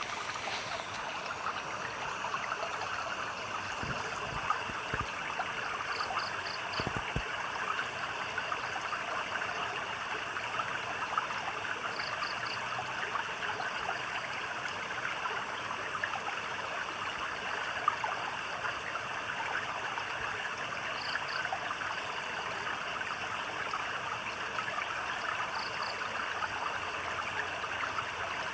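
A stream of water flowing and trickling steadily. Short runs of three or four high chirps from a small animal come through it four times.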